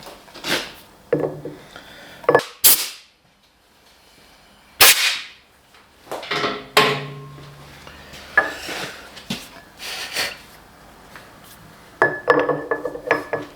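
Steel parts and hand tools being picked up and set down on a metal workbench: a series of separate clanks and clinks, several ringing briefly, with a quiet gap about three seconds in and a quick cluster of clinks near the end.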